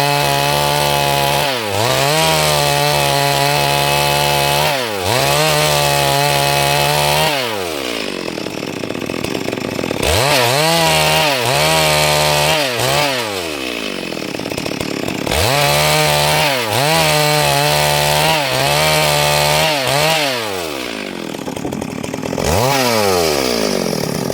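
Chainsaw engine revved and held at high speed in a series of bursts of a few seconds each, dropping and climbing in pitch between them, then falling away and cutting off near the end.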